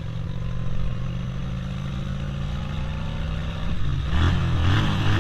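A motor vehicle engine running steadily on the road, getting louder about four seconds in.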